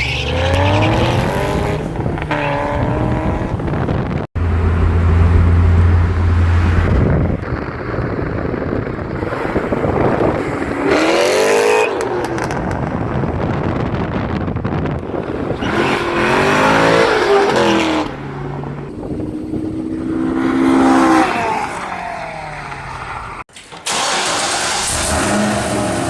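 C6 Corvette Z06's 7.0-litre LS7 V8 revving, its exhaust note climbing and falling in pitch several times. It cuts off abruptly about four seconds in and again near the end.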